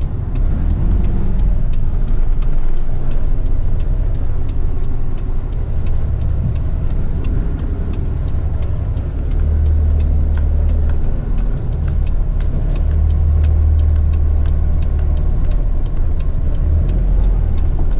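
Truck engine and road rumble heard from inside the cab while driving, a steady deep drone that swells louder twice in the middle, with a faint regular ticking above it.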